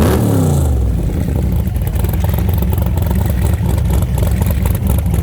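Car engine revved briefly, its pitch falling away within the first second, then a steady, low, pulsing exhaust rumble.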